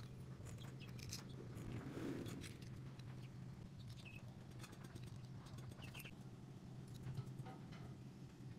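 Faint scattered ticks and taps, with a few short high chirps, over a steady low hum.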